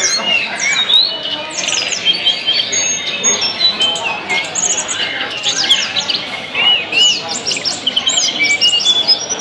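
Tledekan (small flycatcher) songbirds singing in a dense, continuous jumble of short whistles, rising and falling slurs and rapid chirps. The song is full of mimicked phrases, the 'fighting' display song used to provoke other caged birds into singing.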